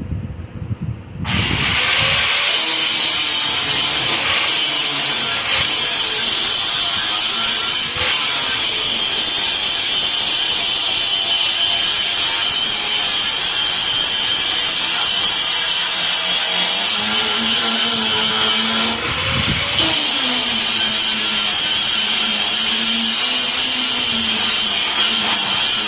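A power grinder starts about a second in and runs continuously against the steel frame, giving a harsh, hissing grind over a motor tone that sags and recovers under load. It eases off briefly about two-thirds of the way through, then bites in again.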